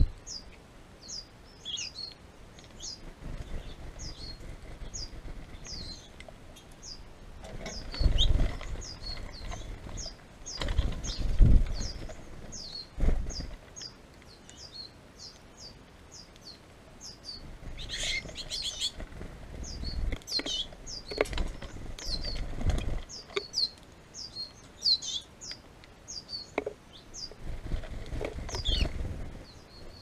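Small birds chirping steadily, a short high falling note about twice a second, with bursts of wing fluttering and low bumps as birds land on and leave a tube feeder close to the microphone.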